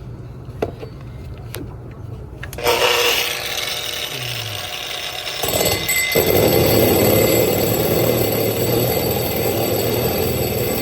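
Power drill running: a few light clicks, then the drill starts up about three seconds in and grinds steadily from about six seconds on.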